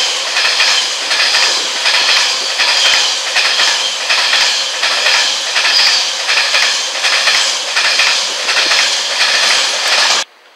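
Freight train of open box wagons passing close by at speed: wheels clattering over rail joints in a regular clickety-clack, about two beats a second, over a steady rushing hiss. It cuts off suddenly near the end.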